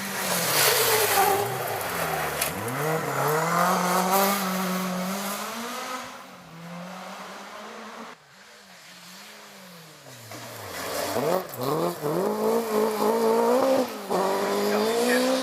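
Rally car engine at full throttle on a forest stage, revs climbing and dropping sharply with each gear change, fading away about six seconds in. A few seconds later another rally car's engine builds up loud, again revving hard through its gears.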